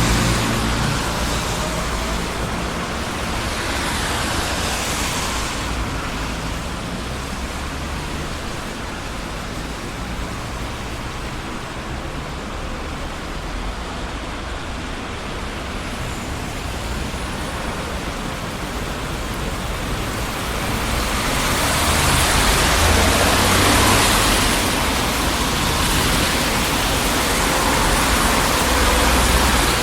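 Busy city street traffic: a steady wash of tyre and engine noise with low rumble, swelling twice as vehicles pass, early on and again over the last third.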